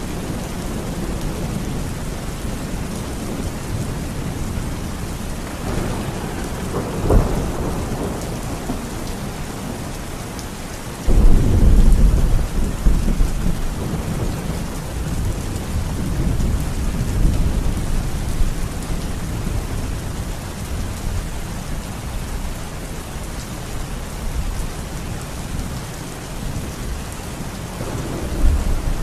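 Heavy rain falling steadily, with thunder. A rumble comes about six seconds in, a sudden loud thunderclap about eleven seconds in rolls on for several seconds, and another rumble builds near the end.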